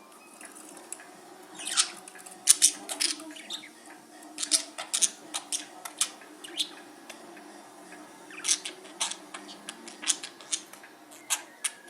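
Pet talking bird making runs of short, sharp clicks and squeaks, in several bursts with pauses between them.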